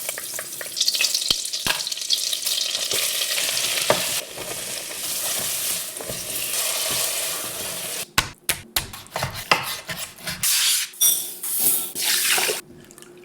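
Food sizzling and being stirred in a pot for about the first eight seconds, with a few sharp clinks. After that comes a run of separate short knocks, clinks and brief splashing sounds.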